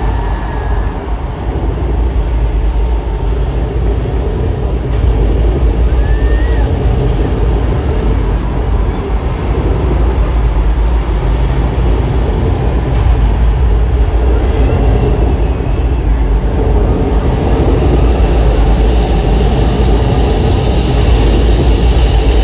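Large arena crowd cheering, with a couple of short whistles, over a heavy, steady bass rumble from the PA, building slightly toward the end.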